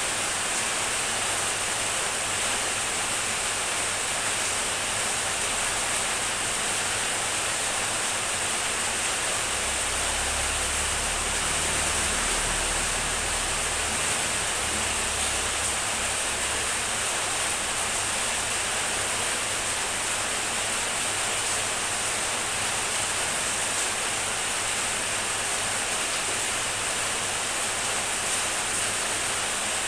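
Heavy rain falling in a steady, even hiss. A faint low rumble sits underneath for a few seconds in the middle.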